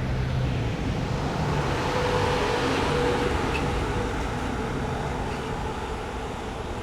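Jet aircraft engine noise at an airport: a steady rush with a faint whine running through it, and a low hum that dies away in the first second.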